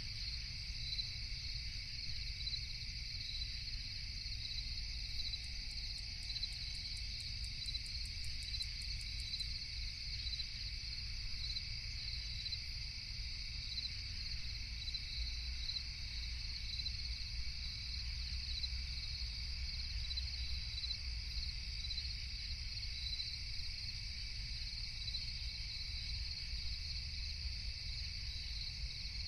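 Crickets chirping steadily in a dense night chorus over a low rumble, with a brief run of rapid high ticking a few seconds in.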